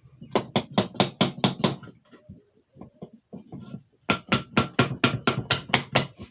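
Rapid hammer blows on a single-phase electric motor's tight end cover, knocking it loose from the housing: two runs of about five strikes a second, with lighter taps between and a metallic ring in the second run.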